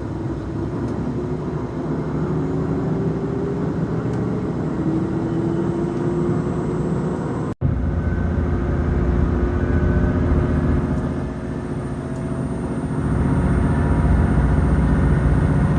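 JR Shikoku 2000 series diesel railcar running under power, its engine and drive note rising slowly in pitch as the train gathers speed. The sound cuts out for an instant about seven and a half seconds in, then carries on rising and grows louder near the end.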